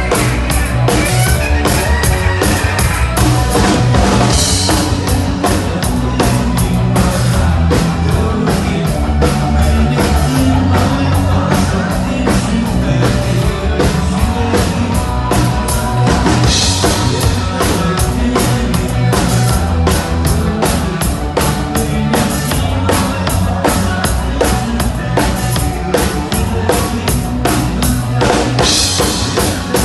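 Rock band playing, led by a drum kit with a fast, steady beat and heavy bass drum under electric guitar. Crash cymbals splash three times, about 4, 16 and 28 seconds in.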